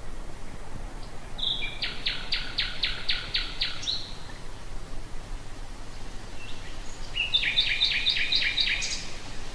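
Common nightingale singing two phrases, each a quick run of repeated notes, about four a second, over a steady low background hum.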